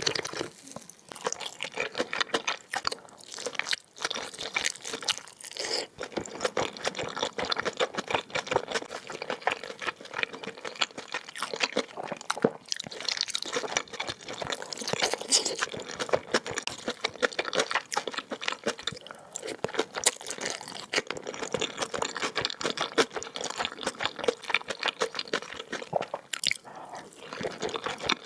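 Close-miked ASMR eating sounds of a person chewing kimchi mandu dumplings, with many quick, dense mouth clicks throughout.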